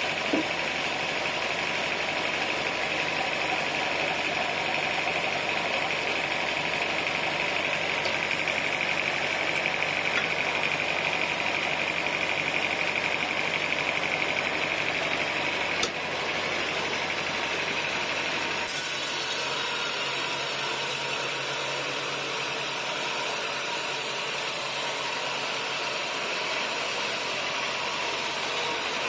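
Sawmill machinery running steadily, with the sound of an engine running. About halfway through there is a click and the low end of the sound drops away for a while.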